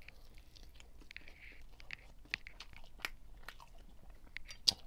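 A person chewing a mouthful of brown stew chicken and rice with the mouth open: faint, irregular wet smacks and mouth clicks, with one sharper click near the end.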